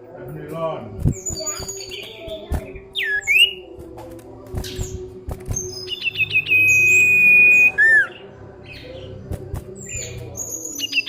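Common iora (cipow) calling: short whistled chirps and slurred glides, then about six seconds in a quick run of clicking notes that runs into one long, steady whistle. A few faint knocks can be heard in between.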